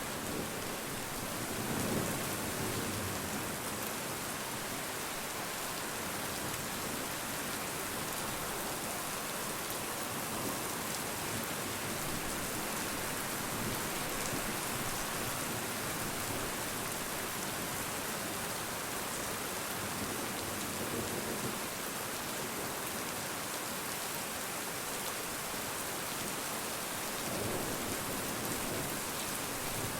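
Rain falling steadily, an even wash of drops, with a few brief low swells in the sound.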